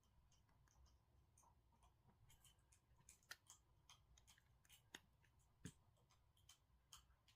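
Near silence with faint, scattered small clicks and taps, the sound of a phone being handled by hand.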